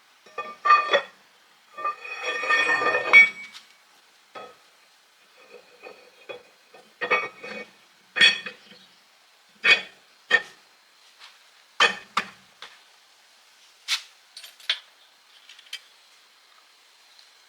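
Metal parts and tools clinking and clanking as they are handled. A longer rattling clatter comes about two seconds in, then single clanks follow every second or two.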